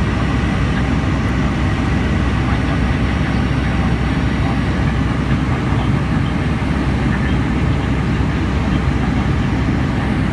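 Steady rumble inside the passenger cabin of a Boeing 757 airliner in flight: engine and airflow noise, heaviest in the low range, with no change in level.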